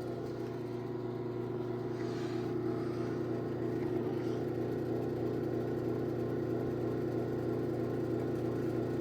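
Electric garage door opener motor running steadily with an even hum as it drives the door closed.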